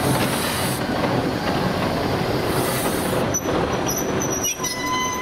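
Narrow-gauge passenger train hauled by a TU2 diesel locomotive running on the track: a steady rumble of wheels and rails, with thin, high wheel-squeal tones coming in about four seconds in.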